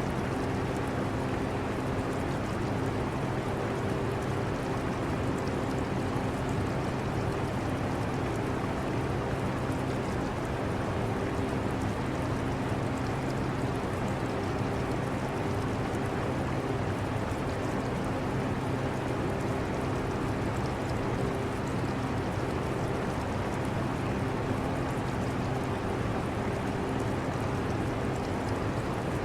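Portable air conditioner running with a steady hum, over the steady trickle of water in an aquarium.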